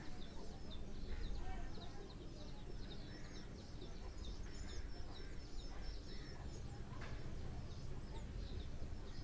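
Faint birds chirping over and over, short high chirps throughout, over a low steady background hum.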